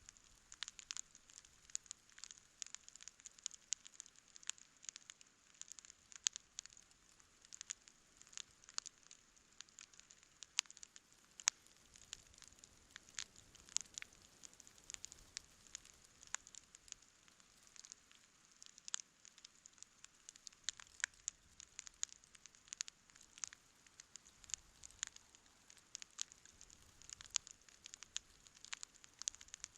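Wood campfire crackling: irregular sharp snaps and pops, several a second, over a faint steady hiss.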